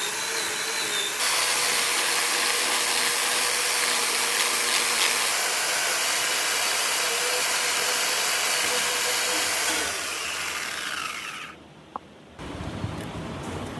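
An electric power tool running steadily with a high hiss and whine, louder from about a second in. Near the end it is switched off and the whine falls in pitch as it winds down, followed by a click.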